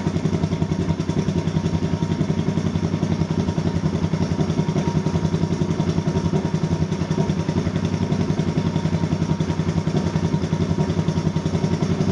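1973 Honda CB350's air-cooled parallel-twin engine idling steadily with an even, rapid exhaust beat, running again after its carburetors were refitted following two years standing.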